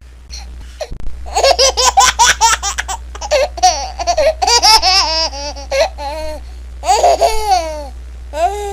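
Baby laughing: quick bursts of giggles start about a second in, followed by long high squealing laughs that fall in pitch, over a steady low hum.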